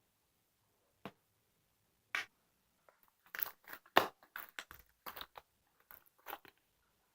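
Irregular crisp crackling and clicking noises: single ones about a second and two seconds in, then a dense run of them in the middle with one sharp, louder snap.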